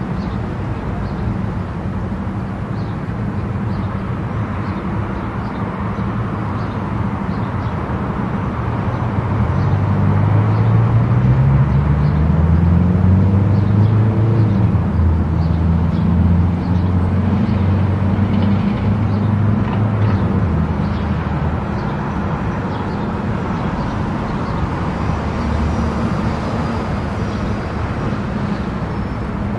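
Car driving on a highway: steady tyre and road noise. About a third of the way in it grows louder with a low drone that rises in pitch, then eases back about two-thirds of the way through.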